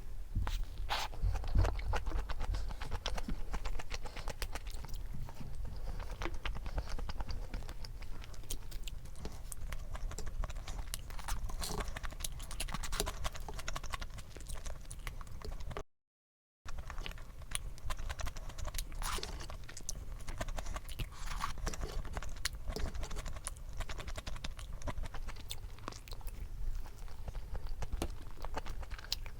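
Close-up eating sounds: chewing with crisp, crunchy bites and small wet clicks of a salad and sandwich meal. The sound cuts out completely for a moment about halfway through.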